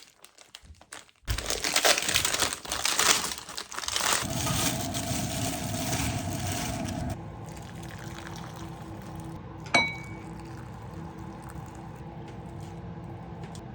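Handling noises: a few seconds of loud rustling, then a quieter stretch with a single sharp clink that rings briefly, about ten seconds in.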